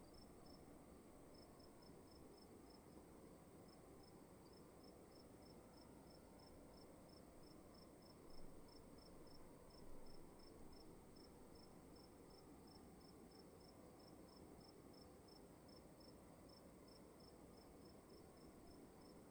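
Crickets chirping faintly and steadily, about three chirps a second, over a continuous high insect trill and a low room hiss. Two brief soft sounds come about eight and ten seconds in.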